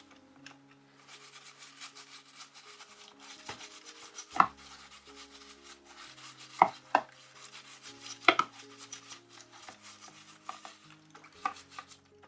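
Hard plastic knocks and clicks with scratchy rubbing, from keyboard parts being handled and worked on, with four sharper knocks standing out; background music plays underneath.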